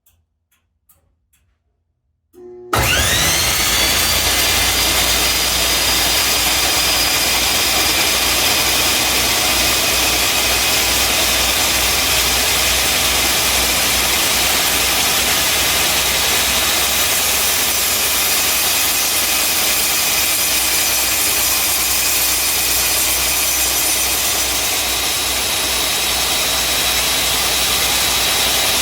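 A Hitachi C12Y 12-inch table saw is switched on. After a few faint clicks, its motor starts suddenly about two and a half seconds in, winds up to speed with a quick rising whine, and then runs on steadily.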